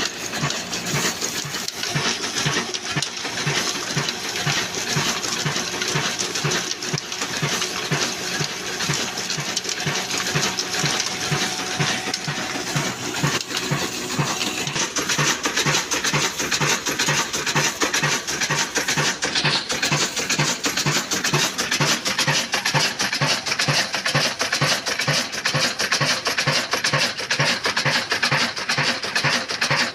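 Old black single-cylinder diesel engine running slowly under load, its beat steady at about two and a half a second, driving a flour mill (aata chakki) whose grinding and belt noise fill the sound around it. The beat grows more distinct about halfway through.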